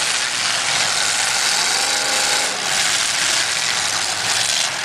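Several demolition derby cars' engines running and revving hard at once, a loud, rough, rattling din without a break.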